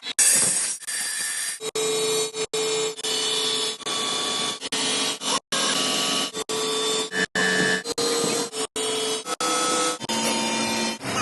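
Workshop machining noise from power tools, with steady whines that change pitch from one short stretch to the next and break off abruptly every second or so.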